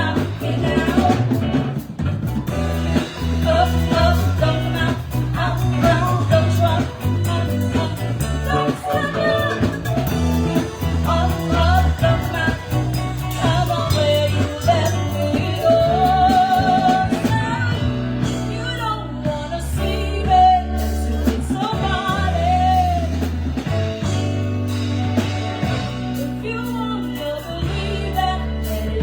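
Live band playing a song: a singer's lead vocal over drum kit and guitar, with a strong low bass line.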